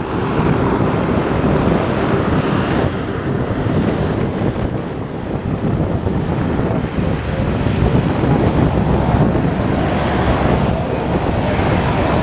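Aircraft engines running, a loud, continuous, steady rumble.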